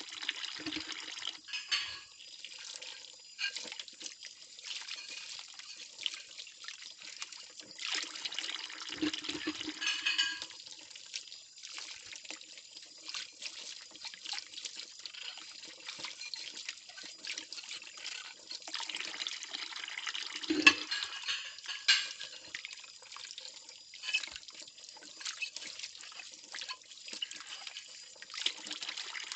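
Plates being washed by hand in a sink: water splashing and trickling, with small clinks of ceramic. It grows louder twice, about a third of the way in and again about two thirds in, where a couple of sharp clinks stand out.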